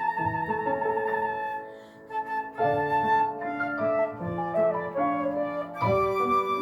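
Flute playing a sustained, slightly wavering melody over piano accompaniment, with a short pause about two seconds in before both come back in.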